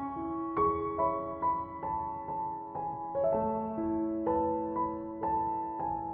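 Soft, slow piano background music, single notes struck about every half second over sustained chords.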